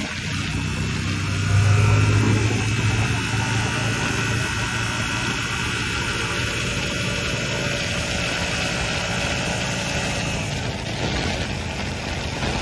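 Yamaha R7's 689 cc parallel-twin engine running as the motorcycle rides along, with wind rushing over a handlebar-mounted phone's microphone. The engine note swells briefly under throttle about a second and a half in, then holds steady.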